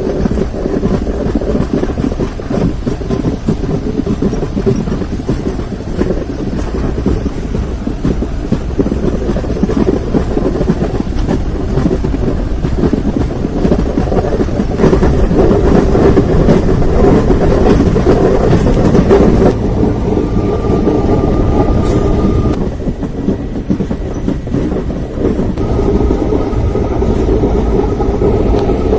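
Passenger train running on the track, wheels rattling and clattering steadily, swelling louder around the middle; a faint steady high tone sounds twice in the second half.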